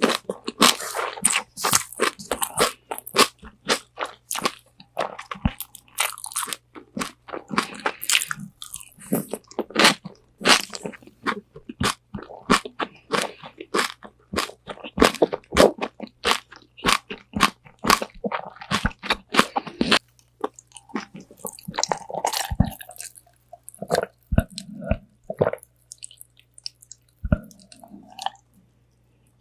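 Close-miked biting and chewing of crispy spicy Korean fried chicken wings from Bonchon, a fast run of sharp crackling crunches. After about twenty seconds the crunches thin out into slower, softer chewing with short pauses.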